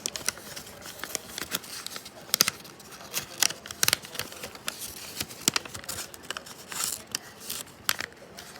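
Sheet of paper being handled and folded by hand, with irregular crinkles and sharp crackles as it is creased.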